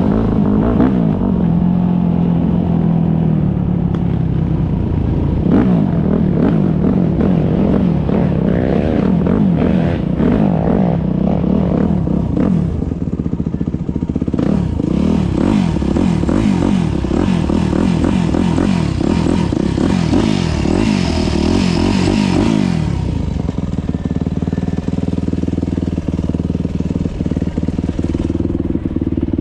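Motocross motorcycle engines revving up and down through their gears, several overlapping, with repeated rising whines. About three quarters of the way through, the revving stops and a lower, steadier engine sound remains.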